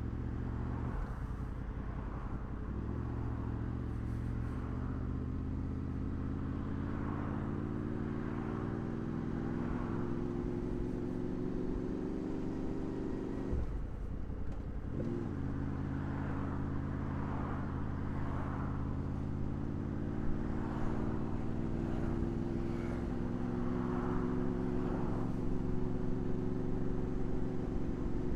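Honda VFR800's V4 engine running on the road, its pitch climbing slowly. About halfway through the revs drop sharply, then climb again, with wind rush throughout.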